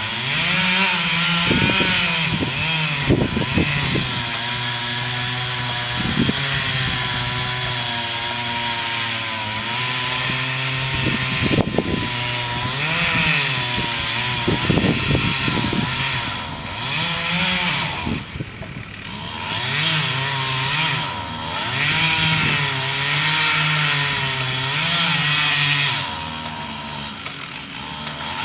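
Chainsaw running at high revs while cutting a tree, its engine pitch rising and falling as the throttle and load change and easing off briefly after about 18 seconds. Several sharp cracks come in between, mostly in the first half.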